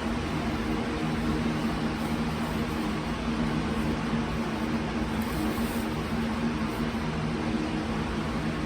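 Steady mechanical hum with an even hiss, from a running motor-driven appliance such as a fan or air conditioner; a few low steady tones sit in the hum and it does not change.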